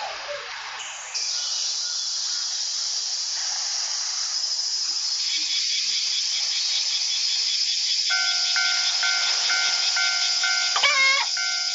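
Japanese railroad crossing warning bell starting up about eight seconds in, ringing in a regular repeating ding about twice every second-and-a-bit, over a steady high hiss that begins about a second in. A brief wavering tone sounds just before the end.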